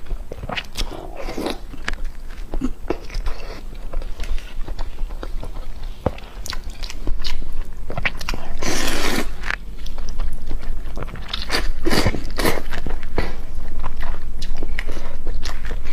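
Close-miked eating: a person biting and chewing food, with many sharp wet mouth clicks and smacks. A louder noisy burst comes about halfway through, and the eating grows louder over the last few seconds.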